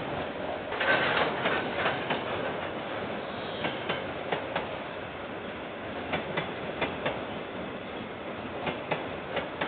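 Freight train container wagons rolling past: a steady rumble of wheels on rail, with sharp irregular clicks as the wheels cross rail joints, louder about a second in.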